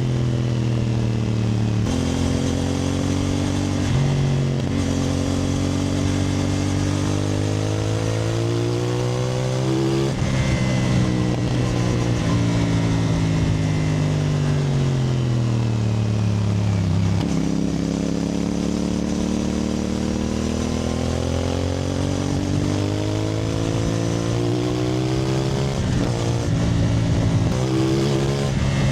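CFMoto 450NK's parallel-twin engine on the move: revs climbing and dropping with gear changes, a long fall in pitch as the bike slows, then a steady climb in revs again with quick shifts near the end.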